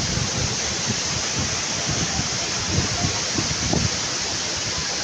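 Waterfall rushing steadily, with gusts of wind buffeting the microphone.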